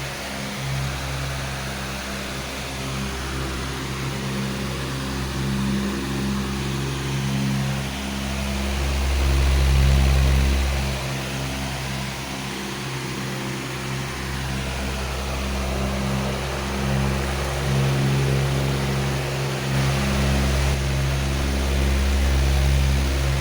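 Powerful electric fan running steadily: a continuous rush of air over a low hum that swells and fades.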